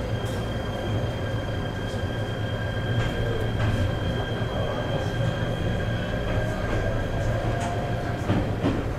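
Interior of an ET127 series electric train running slowly: a steady low running hum with a held high-pitched whine, and a few short clicks and knocks from the running gear.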